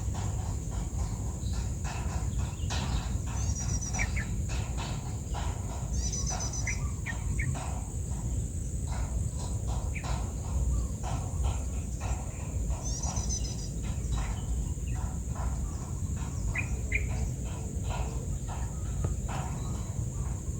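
A steady high-pitched insect drone, like crickets or cicadas, with a bird chirping briefly a few times. Underneath runs a low rumble and frequent small clicks and rustles.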